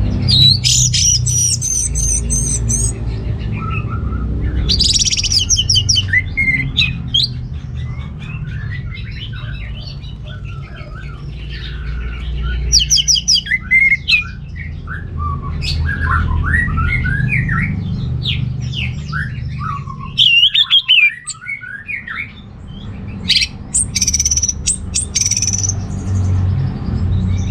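Orange-headed thrush singing a long, varied run of quick whistled and chattering phrases, some high and trilled, over a steady low rumble.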